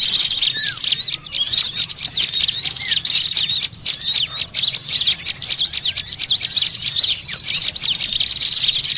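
Small songbirds chattering noisily and agitatedly: many rapid, high chirps and trills overlapping without a break, the kind of small-bird commotion played as a bird lure.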